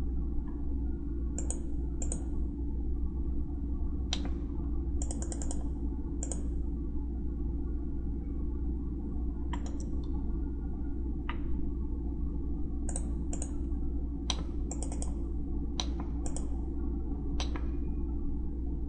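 Scattered clicks of a computer mouse and keyboard, some in quick pairs or short runs, over a steady low electrical hum.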